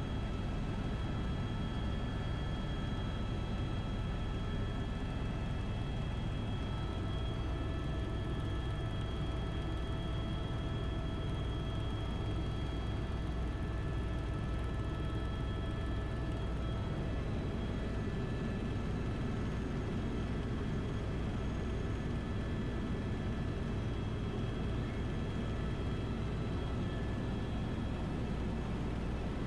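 Helicopter engine and rotor noise heard from inside the cabin: a steady low drone with thin, high turbine whine tones, unchanging throughout.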